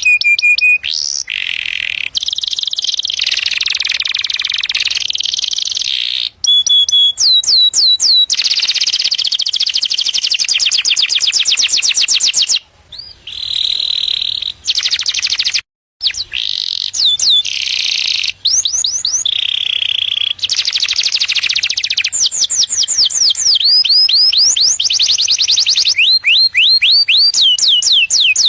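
Domestic canary singing its courtship song: loud, fast trills of rapidly repeated falling notes, phrase after phrase, with abrupt breaks and a brief silence a little after the middle.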